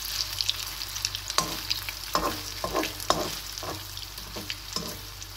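Zucchini pancake sizzling steadily in olive oil in a nonstick pan, with a slotted spatula scraping and tapping against the pan several times as it is worked under the pancake.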